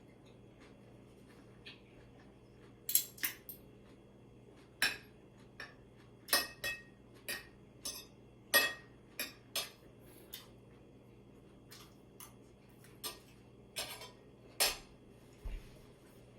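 Eating utensils knocking and clinking against dishes during a meal, in irregular sharp clicks, some ringing briefly.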